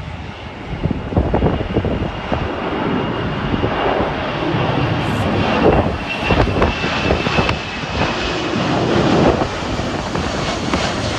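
Jet airliner passing, a loud steady rush of engine noise with a thin high whine that slowly falls in pitch, while wind buffets the microphone.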